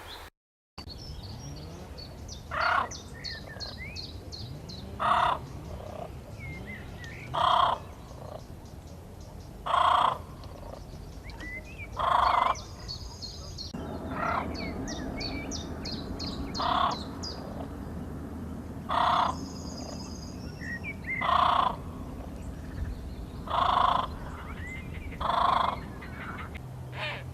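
A bird gives a loud call about every two and a half seconds, eleven times in all, while smaller birds chirp quickly in between.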